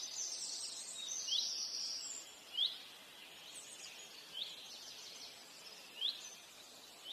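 Birds singing: a short rising chirp repeated every second or so, over a busier twittering of other birds that dies down about two seconds in.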